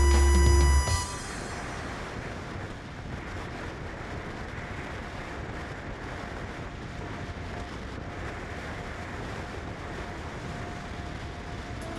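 Background music ends with a falling tone about a second in, then a steady rushing noise continues without a break.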